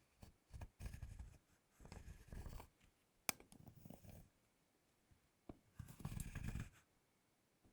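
Metal fork scraped across a thick bar of chocolate in four separate strokes of about half a second to a second each, with one sharp click about three seconds in.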